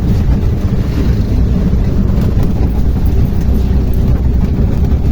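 Tuktuk riding along the road, heard from on board: a steady, loud low rumble of its motor and the road.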